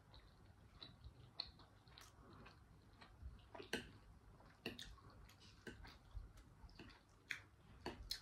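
Faint chewing, with irregular soft clicks of a metal fork against a ceramic bowl as food is picked up.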